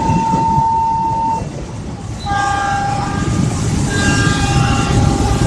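Passing train's locomotive horn sounding twice: a short single-note blast, then a longer chord of several notes, over the loud rumble of the train going by.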